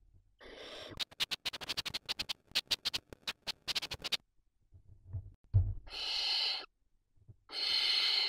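Barn owl chicks in a nest box: a short harsh call, then a fast run of sharp clicking notes lasting about three seconds, a low thump, and two harsh hissing begging calls near the end.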